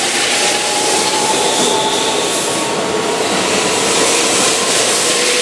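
Keihan 13000-series electric commuter train moving along the platform: a steady loud rolling noise of wheels on rail, with an electric motor whine that slowly rises in pitch as the train picks up speed.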